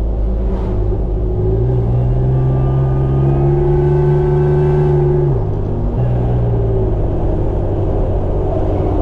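A 4WD's engine and road noise heard from inside the cabin while driving. The engine's pitch climbs slowly, then drops about five seconds in.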